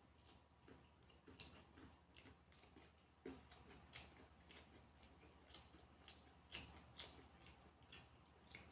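Faint chewing of a mouthful of rice and side dishes: soft, irregular crunches and mouth clicks, a few a second, a little louder now and then.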